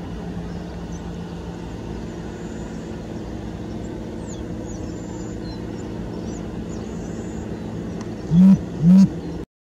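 Steady low droning hum of aircraft noise, with faint high chirps over it. Near the end come two short, loud, low hoots half a second apart, and then the sound cuts off.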